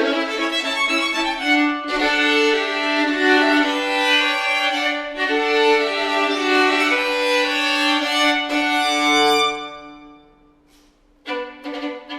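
Violin and viola duo playing slow, sustained bowed lines, a held low note under a moving upper melody. The sound dies away about ten seconds in, and a new phrase starts about a second later.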